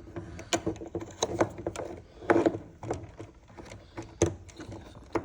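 Irregular clicks and knocks of a charger's plug and cable being handled and fitted into the charging socket on an electric cargo trike, with a louder rattle of handling about two and a half seconds in.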